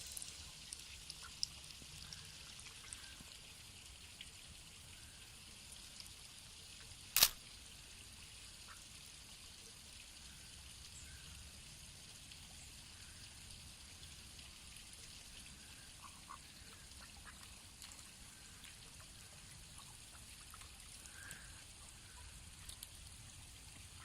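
Pet ducks bathing in shallow water: faint splashing and trickling water with an occasional soft quack, and one sharp loud splash or knock about seven seconds in.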